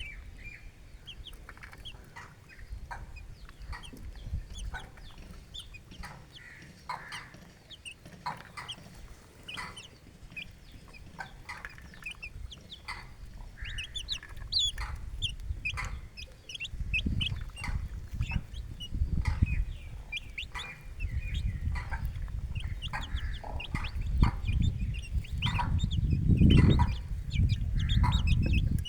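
A hen clucking and chicks peeping in many short, high calls. Under them runs a low rumble that grows louder from about halfway through.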